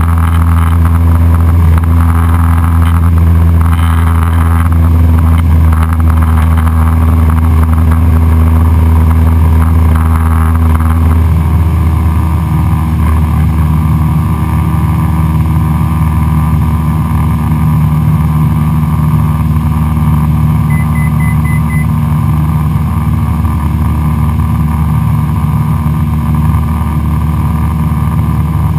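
Cessna 172SP Skyhawk's four-cylinder aircraft engine and propeller droning steadily; about eleven seconds in, the drone shifts in pitch.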